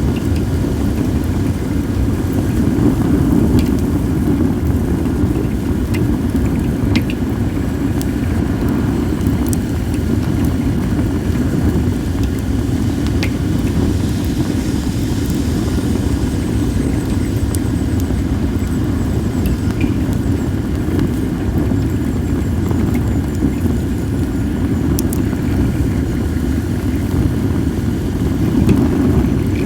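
Wood fire of acacia and mixed firewood burning, with a few sharp crackles here and there, under a loud steady low rumble of wind buffeting the microphone.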